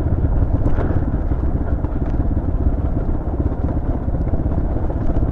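Motorcycle engine running steadily, a low rumble with a few faint clicks over it.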